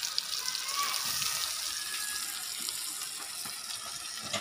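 Hot oil sizzling steadily in a wok, sautéing chopped garlic, onion and chilies with a mound of freshly added shrimp paste (alamang).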